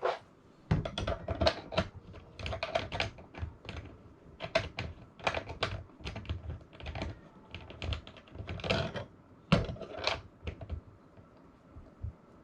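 Irregular bursts of sharp clicking and clattering from hard parts being handled and fitted together by hand.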